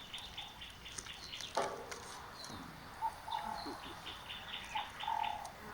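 Wild birds calling: quick runs of short, high chirps, about five a second, and a few lower whistled notes. A single soft knock comes about one and a half seconds in.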